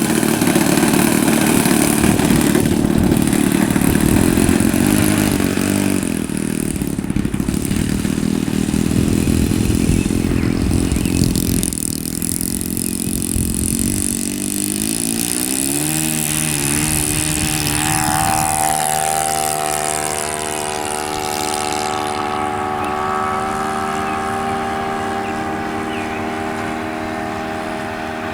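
Saito .82 four-stroke glow engine of an RC model airplane running. It is loud and rough at first, then revs up about two-thirds of the way through and holds a steady, higher-pitched drone, easing off slightly near the end.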